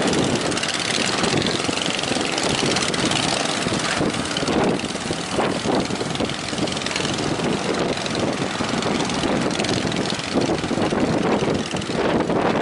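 Strong wind rushing over the microphone together with sea waves breaking, a loud, steady noise that swells and eases unevenly.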